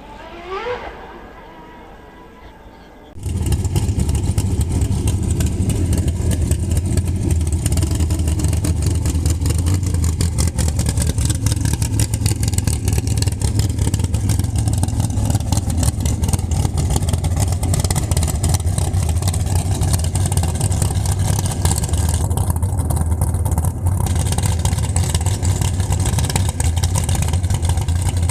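A car engine running loud and steady at close range, with a deep, even pulse and no revving. It cuts in suddenly about three seconds in, after a short rising whine.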